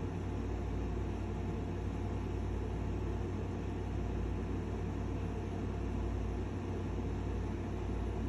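Steady low rumble with an even hiss behind it, unchanging, with no distinct events.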